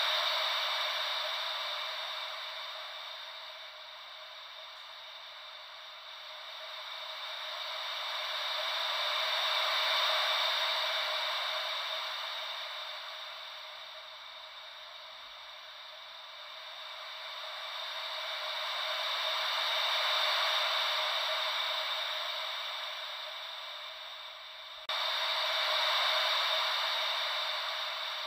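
Gentle ocean-wave white noise: a steady hiss that swells and fades slowly, about once every ten seconds. Near the end the level jumps up suddenly.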